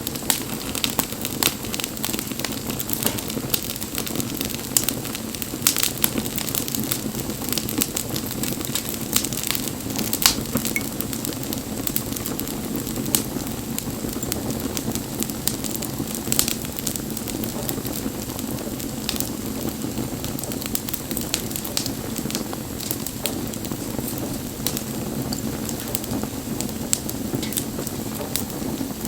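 Wood bonfire crackling, with a constant stream of sharp pops and snaps, a few louder than the rest, over a steady low rush of burning.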